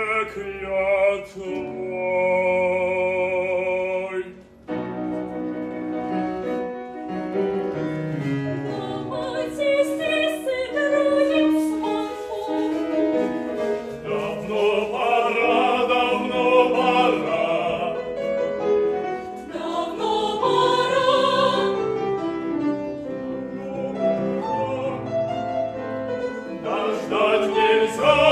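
Operetta singing in a trained operatic style with vibrato, over instrumental accompaniment. Early on a single voice holds a long note; after a short break, several voices sing together.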